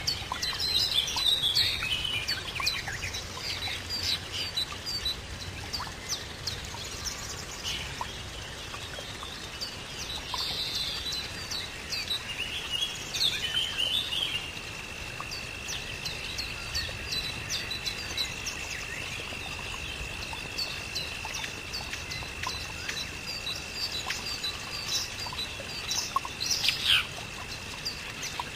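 Many birds chirping and calling in quick, overlapping short notes. About halfway through, a steady high-pitched tone joins and holds.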